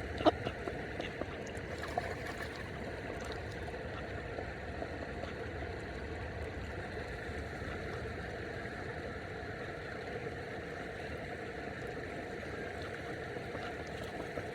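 Steady rush of river water flowing, with a single sharp click just after the start.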